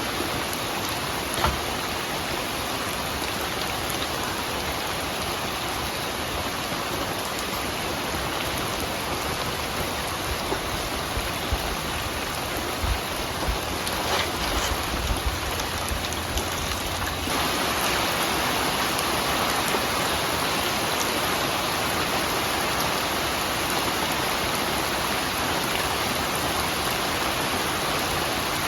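Steady rain falling, with scattered sharper drops and taps in the middle; the rain grows a little louder about two-thirds of the way through.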